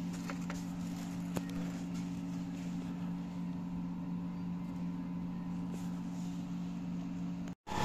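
Steady low hum at a constant pitch, with a faint click about a second and a half in.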